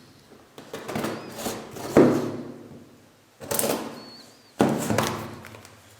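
Cardboard product box being opened and handled: a handful of sudden knocks and scrapes of the flaps and packaging, each dying away within a second.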